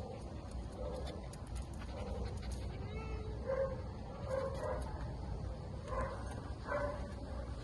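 A dog whimpering, a string of short pitched whines in the second half, over a steady low rumble.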